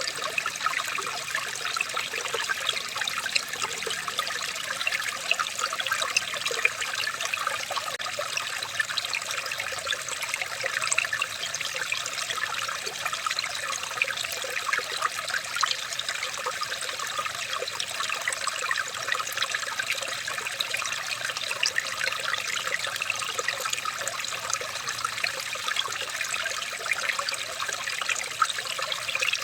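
Water trickling and splashing steadily in a small stream, a continuous stream of little splashes.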